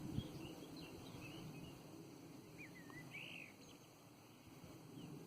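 Faint, scattered small-bird chirps and whistles over low, even background noise, with one clearer warbling call about three seconds in. A light knock sounds at the very start.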